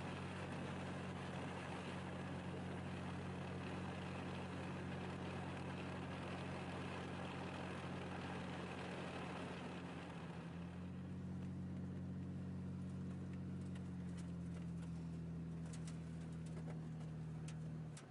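An engine or motor running steadily with a low, even hum. About ten seconds in the hiss over it fades, and a few light clicks follow near the end.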